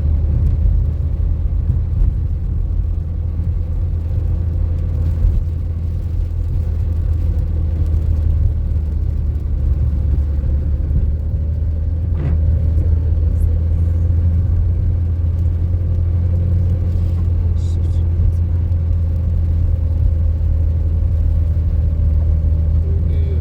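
Steady low rumble of a motor vehicle driving, with a faint constant hum over it and an occasional light click.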